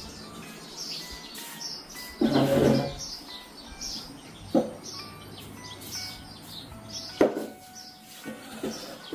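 Small birds chirping again and again over light background music, with a louder burst about two seconds in and two sharp knocks later on.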